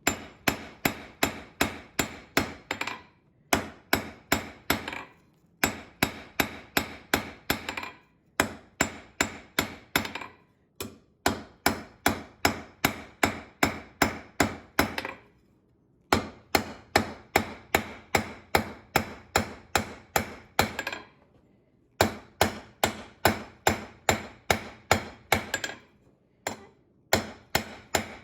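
Hand hammer striking hot iron stock on an anvil: runs of about three blows a second, each with a short ring, broken by brief pauses every few seconds.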